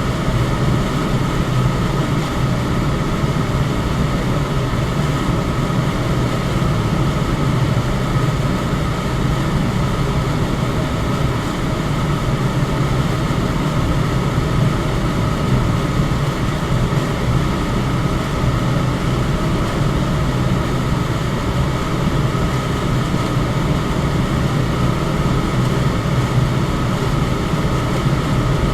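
Electric fan running steadily: an even whooshing rush of air with a low hum and a faint, steady higher tone.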